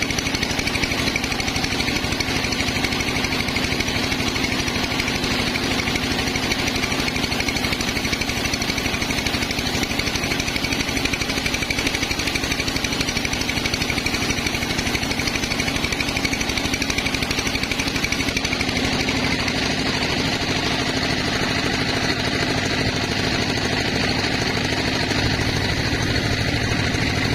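Sawmill machinery running steadily with a dense, rapid engine-like rattle; the tone shifts a little about two-thirds of the way through.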